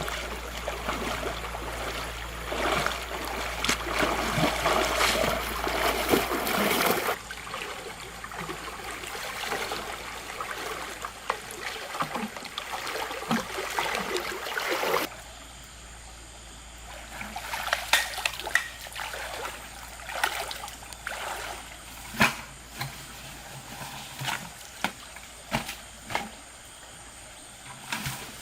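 Rushing, splashing river water. The sound changes abruptly about seven and fifteen seconds in, and in the second half it becomes quieter running water broken by scattered sharp splashes.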